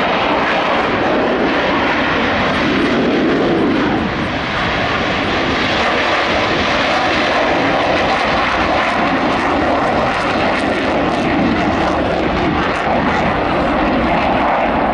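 Jet aircraft engines running, a loud and steady noise with a brief dip about four seconds in.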